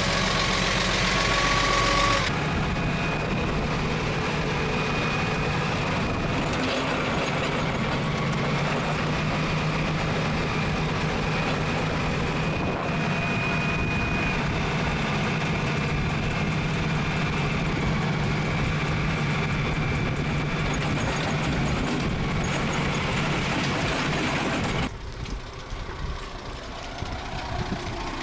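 Forklift engine running with a steady drone, then dropping away near the end.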